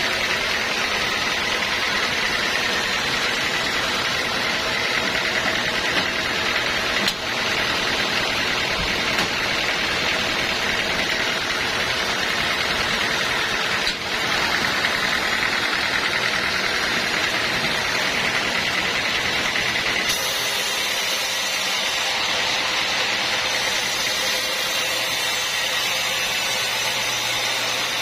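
Sawmill machinery running steadily, a continuous mechanical hum with a high whine through it; the sound changes character abruptly a few times.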